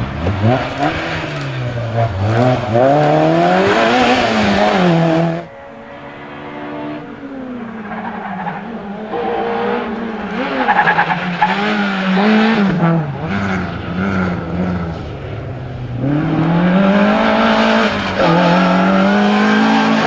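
Rally car engines at full throttle, revving up and dropping back with each gear change as the cars drive the stage. The sound cuts abruptly to another car about five seconds in.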